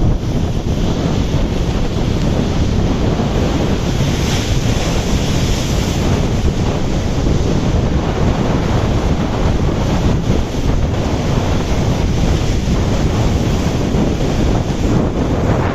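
Rough sea surf breaking and washing in, with strong wind buffeting the microphone as a heavy low rumble. The hiss of the surf swells about four seconds in.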